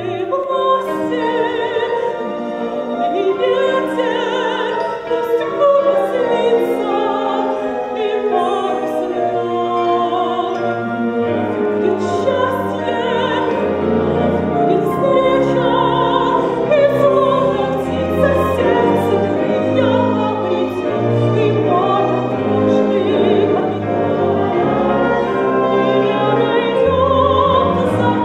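A woman singing a song from a stage musical in an operatic style, her voice wavering with vibrato, over orchestral accompaniment.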